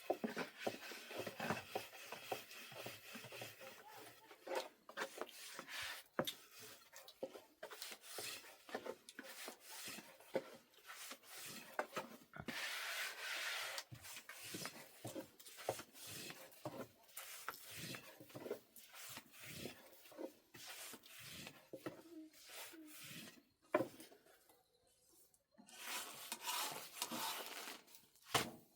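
Dough being worked by hand on a wooden surface: repeated rubbing and scraping with many light knocks, pausing briefly about 24 seconds in.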